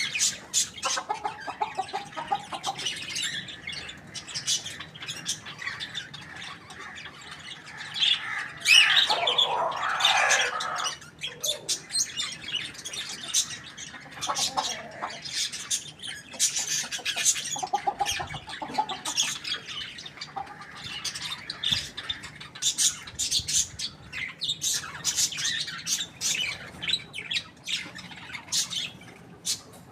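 Domestic chickens calling outdoors: a busy mix of short chirps and squawks, with one louder, drawn-out call about nine seconds in.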